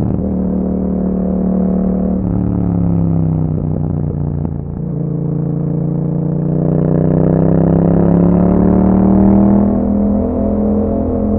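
A 2021 Yamaha MT-07's parallel-twin engine running through an Akrapovic exhaust while riding. The engine note falls for a couple of seconds, dips briefly about halfway through, then climbs steadily for several seconds under acceleration before falling away near the end.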